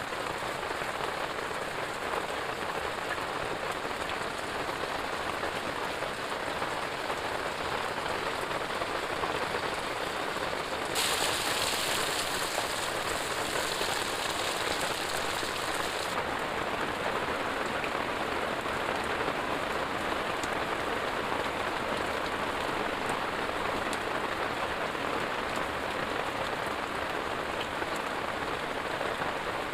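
Heavy rain falling steadily, turning hissier for about five seconds near the middle.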